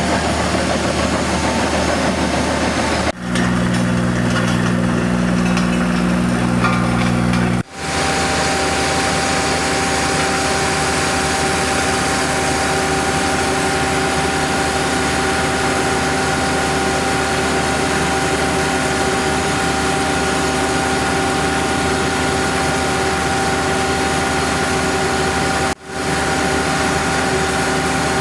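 Engines of heavy road-resurfacing machinery running steadily, with a deeper, heavier engine sound between about three and eight seconds in. The sound drops out abruptly three times, at joins between clips.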